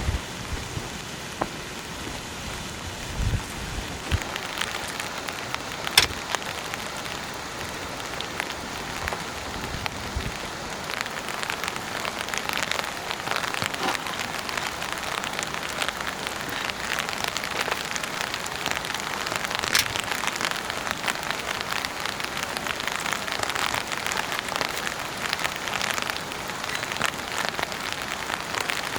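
Steady rain falling, a dense patter of drops striking a surface, with a sharp louder tap about six seconds in and another around twenty seconds in.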